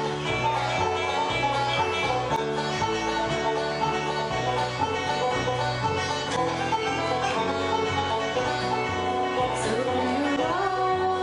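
Bluegrass combo playing: fast banjo picking over guitar and double bass, with the bass stepping between notes about twice a second. About ten seconds in, a note slides up and is held.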